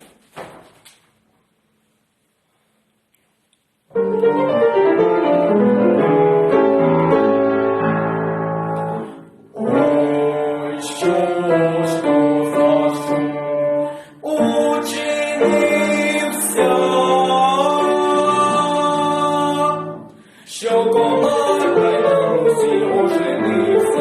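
Near silence for about four seconds, then instrumental music with piano begins and runs on in phrases, with brief breaks between them. It serves as the introduction to a Ukrainian folk song.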